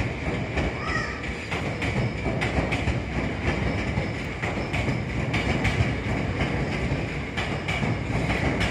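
Tokyo Metro 10000 series electric train running past, a continuous rumble with the clack of wheels crossing rail joints again and again.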